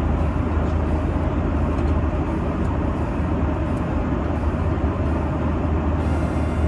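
Steady airliner cabin noise in flight: a constant low engine and airflow rumble with an even hiss over it.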